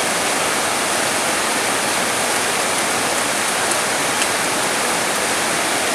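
Heavy rain falling steadily: a dense, even hiss with only faint individual drop ticks.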